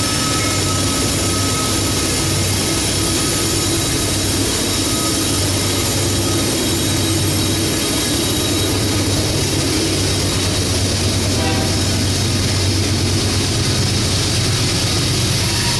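Diesel freight train going by, a steady loud rumble with a low engine hum and faint high whines.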